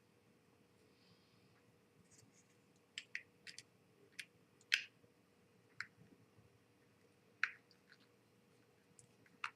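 Scattered light clicks and taps of small screws and plastic model parts being handled and tried together, about eight in all starting a few seconds in, with near silence before them.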